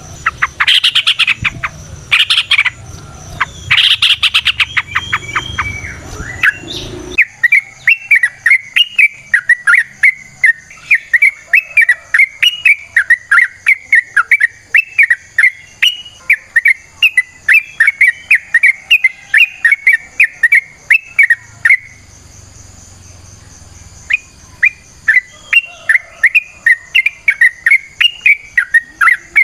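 Yellow-vented bulbul (trucukan) calling. A burst of loud, harsh chattering notes is followed by a long, fast run of chirps, about three or four a second, that pauses briefly about three-quarters through and then resumes.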